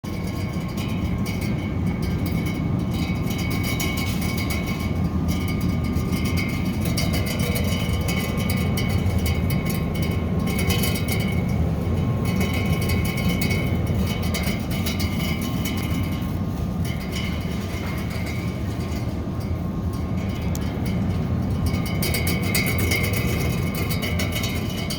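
Store refrigerator rattling steadily: a continuous low hum with a fluttering rattle over it and a thin steady whine.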